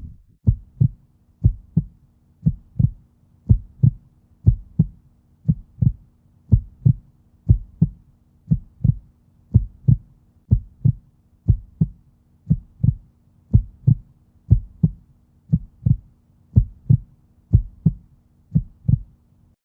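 Heartbeat sound effect: low, even double thumps about once a second over a faint steady drone, cutting off at the end.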